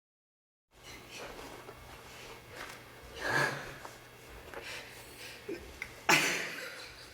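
Breathy exhales and sniffs from people in a room over a steady low hum, the loudest a sharp burst of breath about six seconds in.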